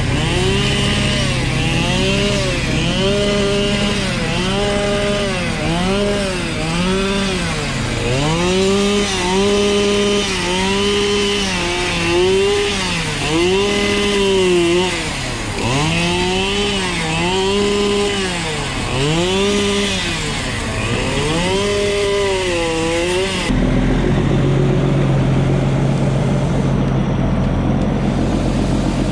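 An engine revved up and down over and over, its pitch rising and falling about once a second. About 23 seconds in it gives way suddenly to a steady engine hum.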